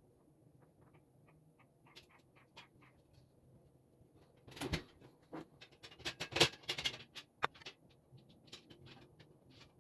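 Light scattered clicks, then about halfway through a cluster of louder knocks and clatter lasting a few seconds: parts of a work table being handled and fitted together.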